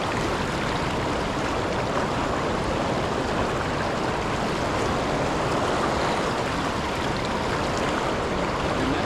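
Milwaukee River water rushing steadily, a constant even roar of flowing current.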